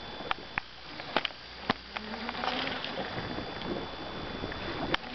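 Fishing reel whirring with a buzzy hum as line is reeled in on a hooked fish, with a few sharp clicks scattered through.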